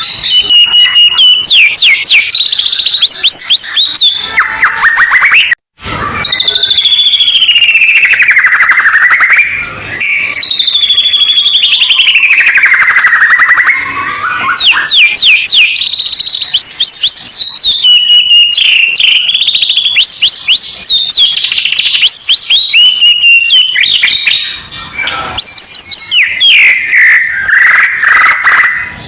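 White-rumped shama (murai batu) song played loud and nearly without pause: rapid runs of sharp repeated notes mixed with long whistled phrases that slide downward in pitch, with one brief break about six seconds in.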